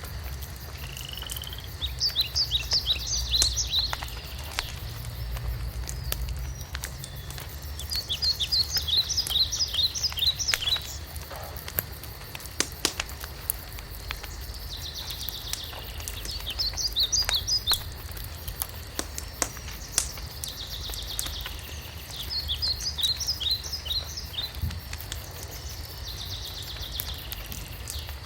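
Wood fire crackling with scattered sharp pops over a low rumble, while a songbird sings a short, fast series of high notes four times, roughly every six to seven seconds.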